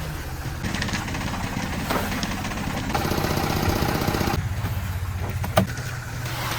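Engine running steadily with a rapid, even chugging, and a single sharp knock about five and a half seconds in.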